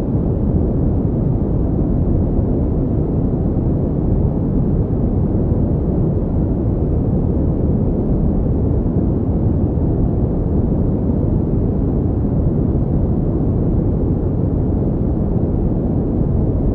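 Steady, unchanging pink noise, deep and muffled, with little high hiss.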